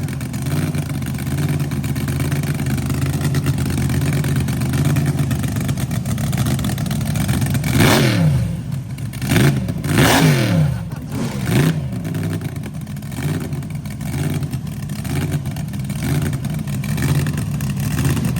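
A car engine idling with a steady, lumpy hum, then revved in a run of quick throttle blips starting about eight seconds in, each rising and falling sharply in pitch, with smaller blips following.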